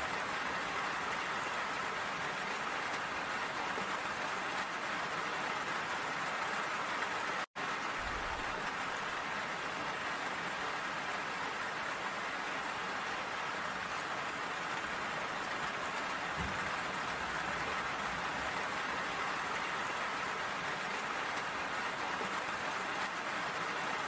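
Steady rain falling, an even hiss of drops. The sound cuts out completely for an instant about seven and a half seconds in, then carries on unchanged.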